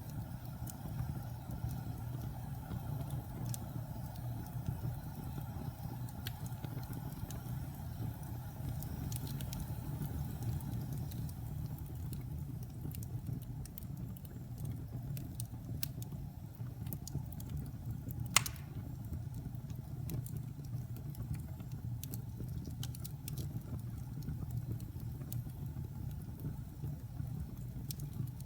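Fire burning in a fireplace: a steady low rumble with scattered small crackles, and one sharp pop about eighteen seconds in.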